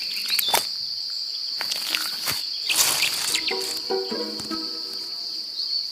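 An insect's steady, high-pitched trill, with scattered clicks and rustles over it.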